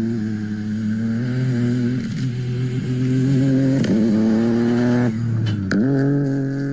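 A rally car's engine running hard at high revs. The engine note breaks and dips several times, most sharply about five seconds in, where a few sharp cracks are heard.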